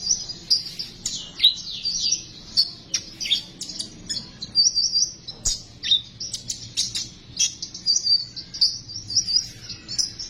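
Konin bird singing its rapid 'besetan' chatter: a continuous run of quick, high chips, trills and short down-slurred notes, the kind of song used as a lure to set other konin birds singing.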